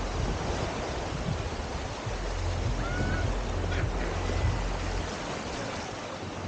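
Surf washing on a beach, a steady rush of noise, with a low rumble from about two to five seconds in.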